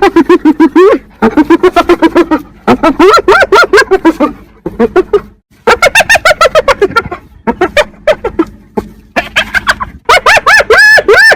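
Hyena calling: fast runs of short, pitched notes, each rising and falling, in several bursts separated by brief pauses.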